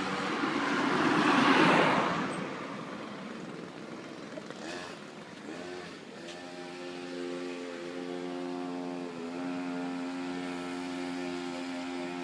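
Two-stroke chainsaw engine powering a homemade go-kart, running with a steady pitched drone. It swells louder about a second in, then settles back with brief changes in pitch, as on a warm-up and test run.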